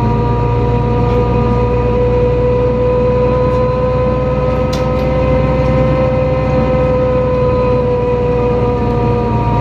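NefAZ-5299 city bus driving, heard from inside the cabin: a steady low rumble with a whine that rises slightly in pitch and falls back near the end.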